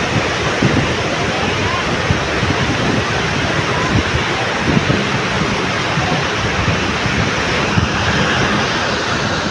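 Surf breaking on a beach, a steady wash of waves, with sea wind buffeting the microphone.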